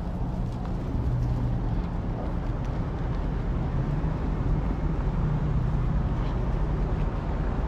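Steady low outdoor rumble, wind noise mixed with traffic.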